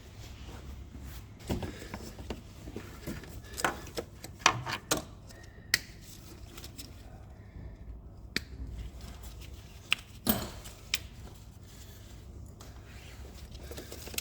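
Scattered clicks and knocks of plastic wiring connectors being unplugged and the engine's wiring loom being handled, with the sharpest knocks about four and a half and ten seconds in.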